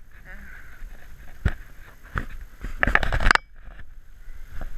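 Bicycle rattling over a rough trail, with several sharp knocks and a burst of clatter a little past the middle.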